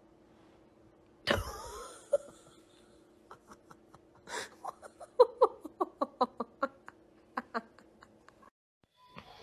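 A person laughing in a run of short bursts, after a loud, sudden cry about a second in.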